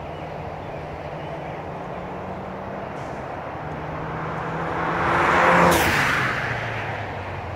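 Drive-by of a 2016 Ford Mustang EcoBoost's turbocharged 2.3-litre four-cylinder through a cat-back exhaust with resonators and MagnaFlow street mufflers, on the stock turbo and downpipe. The engine note grows, is loudest as the car passes about five to six seconds in, then drops in pitch and fades. Steady hiss of highway traffic runs underneath.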